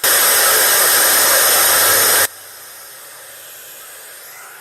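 White noise hiss from a white noise generator, very loud for the first two seconds or so, then dropping suddenly to a steady, fainter hiss.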